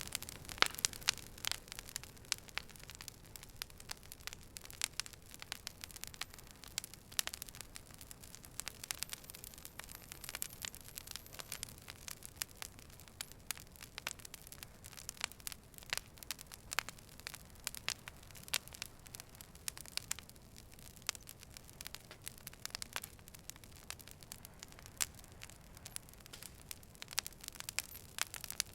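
Wood fire burning, with irregular sharp crackles and pops over a low, steady hiss.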